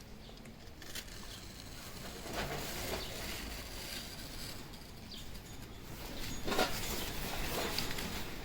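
Faint handling noises of masking tape being pressed onto a motorcycle helmet and trimmed with a razor blade: soft rustles, scrapes and light ticks, with a slightly louder scrape or tap about six and a half seconds in.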